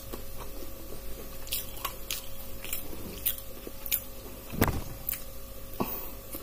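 A person chewing a mouthful close to the microphone: irregular wet mouth clicks several times a second, with two dull knocks in the second half.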